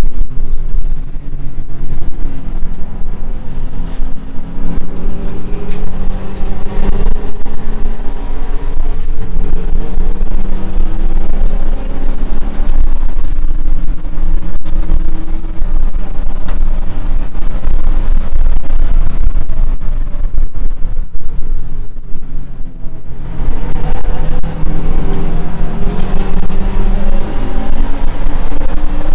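Subaru WRX race car's turbocharged flat-four engine under hard acceleration, heard loud from inside the cabin. The engine note climbs in pitch and drops back at each gear change; around twenty seconds in it eases off briefly, then pulls up through the revs again.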